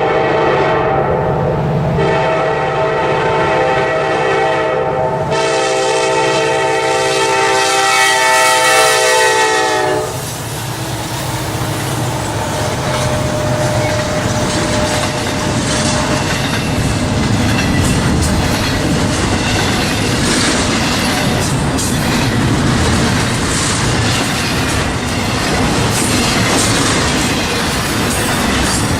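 Norfolk Southern diesel locomotive's multi-note horn blowing in long blasts that stop about ten seconds in. The train then rolls past with steady wheel-and-rail noise and clickety-clack over the rail joints.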